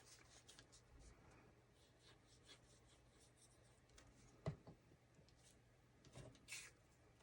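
Faint handling of paper cardstock: light rubbing and rustling, with one soft tap about four and a half seconds in and a few short rustles near the end.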